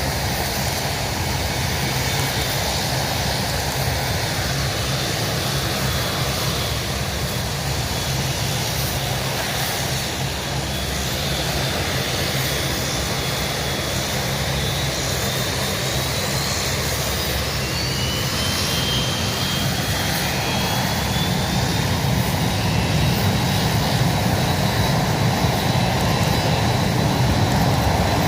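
Aircraft engine noise from an airplane in flight: a steady rush with a faint high whine that slides in pitch, growing a little louder toward the end.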